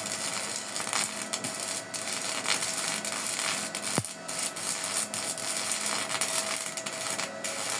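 Electric arc welding: the arc crackles steadily as a pipe is welded onto a plate, with a sharp click about four seconds in.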